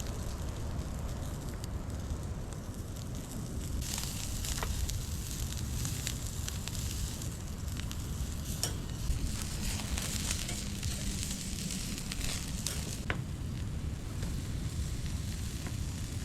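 Food sizzling as it cooks over high heat, the hiss swelling about four seconds in, with scattered sharp pops and crackles over a steady low rumble.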